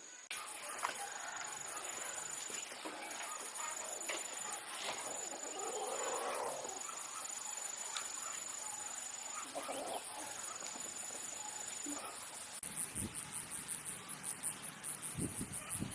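Insects chirring: a rapid, pulsing high trill with a second thin steady buzz that breaks off now and then. A few soft rustles, and some low thumps near the end.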